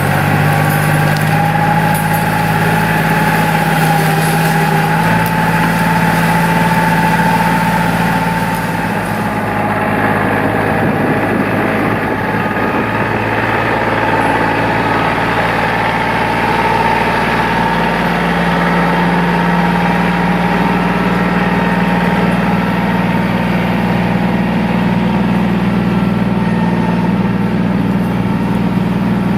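Tractor engine running steadily at raised revs, with a high whine over the engine note.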